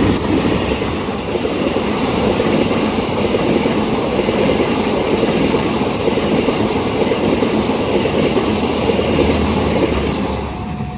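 Train passing close by at speed: a steady loud rumble and clatter of wheels on the rails that eases off near the end.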